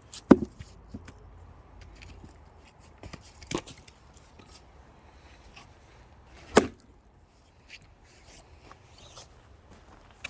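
Axe blows on firewood being split: three sharp strikes about three seconds apart, the first the loudest, with a few lighter knocks between.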